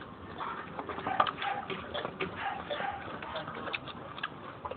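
Close-up chewing and lip-smacking while eating boiled pork hock and rice: irregular wet clicks and smacks, several a second.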